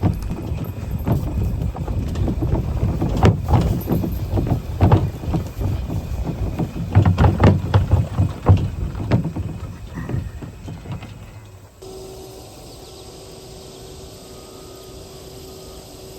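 Cattle moving through a pasture: irregular low thuds and knocks for about twelve seconds, then an abrupt drop to a quieter steady background with a faint steady hum.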